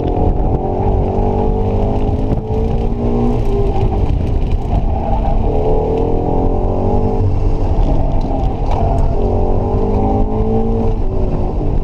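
Subaru BRZ's 2.0-litre flat-four engine, heard from inside the cabin, revving up and dropping back several times as the car accelerates and slows through a cone course.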